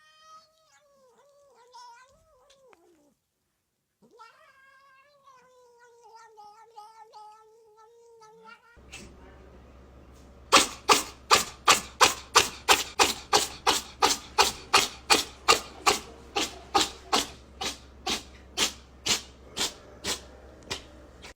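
A cat yowling in two long, drawn-out, wavering cries. Then a rapid, even run of loud sharp sounds, about two and a half a second, for some ten seconds.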